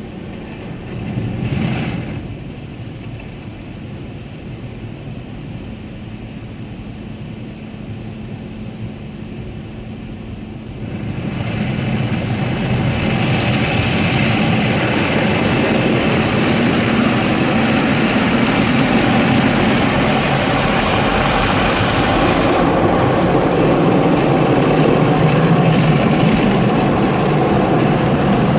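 Automatic car wash working on a car: a quieter steady hum at first, then about eleven seconds in a loud, steady rush of wash machinery noise sets in and carries on.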